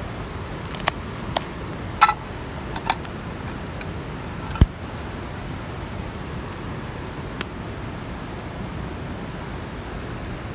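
Scattered clinks and knocks of cooking gear being handled, about six in all, the loudest a duller knock near the middle, over a steady outdoor hiss.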